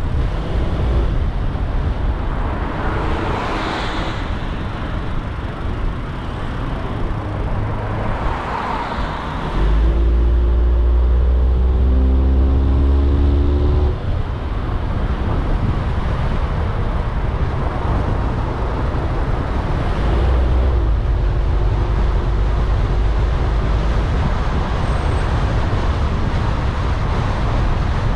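Steady road and traffic noise from a car driving in city traffic, with low tyre and engine rumble and vehicles passing. About ten seconds in, an engine gets louder and its pitch rises in steps for a few seconds as it accelerates.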